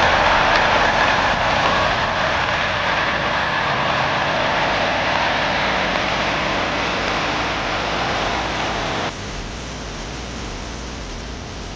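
Heavy diesel forestry machine with a turbocharger, running hard: a loud, steady engine and turbo noise. About nine seconds in it cuts off abruptly to a quieter, duller engine sound.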